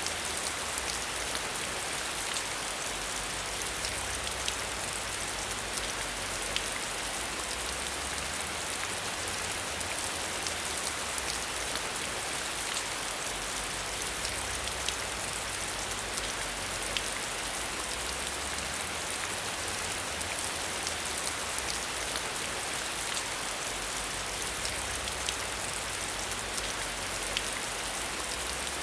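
Steady rain falling, a constant hiss with scattered individual drops ticking against a surface.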